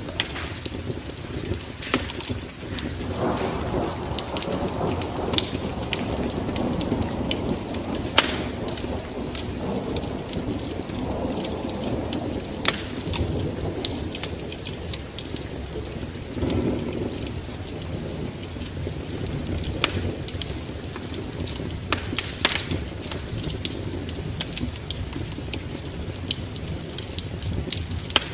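Wood fire burning in a fireplace: irregular sharp crackles and pops over a low, steady rush of flames that swells and eases.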